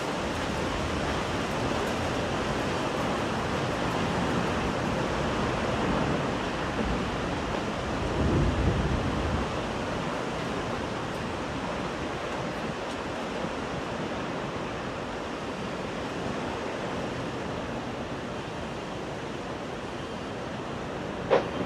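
Strong wind rushing over the microphone in a steady noisy roar, swelling in a low gust about eight seconds in, with one sharp knock near the end.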